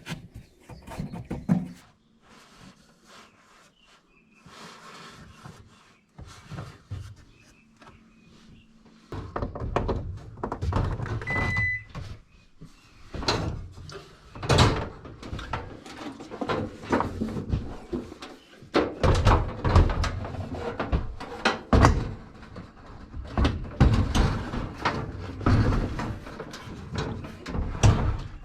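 Wooden knocks, thumps and scrapes as boards are handled and fitted into a cabinet, sparse at first and coming thick and fast from about nine seconds in.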